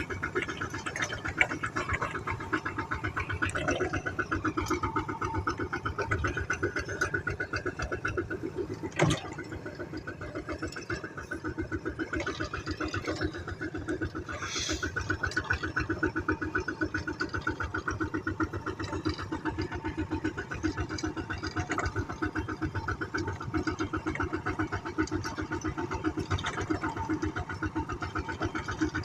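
Engine running steadily with a fast, even beat, and a single sharp knock about nine seconds in.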